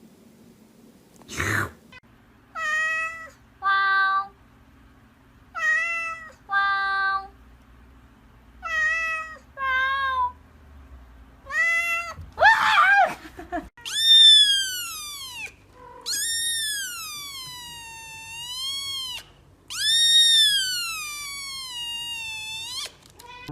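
A cat meowing: six short meows in pairs, then three long drawn-out meows whose pitch rises, falls and rises again. A single sharp knock comes just before the first meow.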